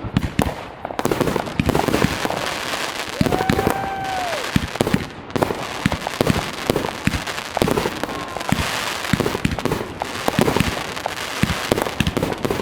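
Fireworks going off: a dense, unbroken run of overlapping bangs and crackles, with a short whistling tone about three seconds in.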